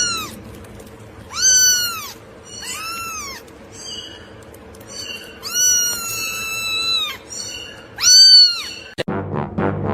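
A cat meowing over and over: several short rising-and-falling meows and one long drawn-out meow in the middle.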